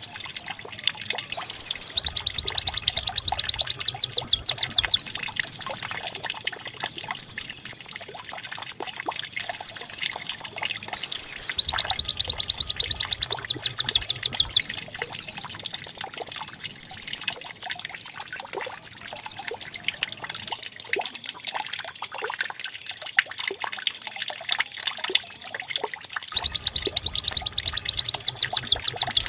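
White-eye (pleci) singing: long runs of very fast chattering trills, run together with rising-and-falling warbled phrases. The song breaks briefly about a third of the way in, goes quiet for several seconds about two-thirds in, then starts again near the end.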